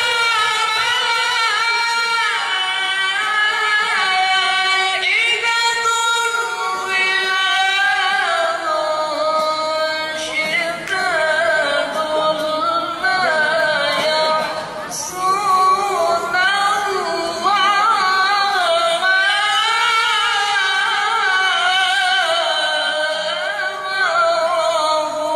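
A qari reciting the Qur'an in the melodic tilawah style: one voice holding long, ornamented phrases whose pitch wavers and bends, with a short break about halfway through.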